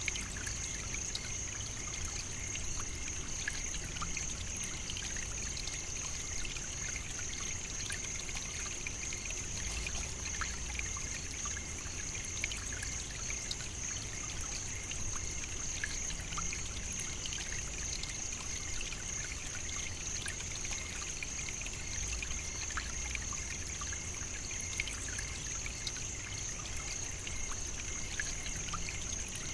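African savannah nature ambience: a steady, unbroken high-pitched drone with a fainter, lower steady tone beneath it and scattered faint ticks.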